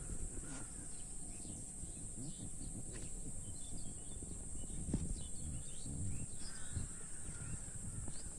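Birds chirping and calling in short scattered notes over a low steady rumble.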